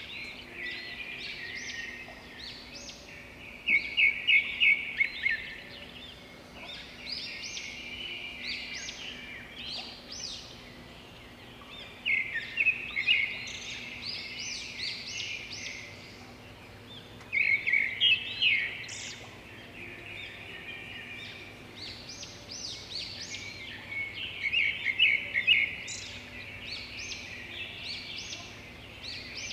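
Small birds chirping and singing in dense runs of rapid high chirps, loudest in bursts every several seconds.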